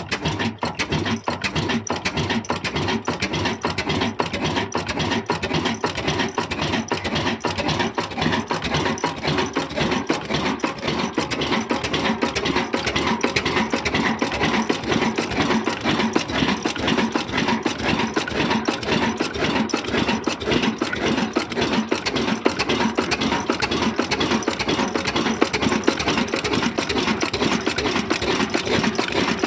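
Old Hornsby-type stationary diesel 'black engine' running steadily, with a rapid, even beat of strokes.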